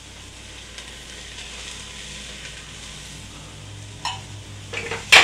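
Diced onions and green chilies sizzling in hot oil in a stainless steel pot, a steady frying hiss. Near the end there is a brief scrape and then a sharp knock, the loudest sound here.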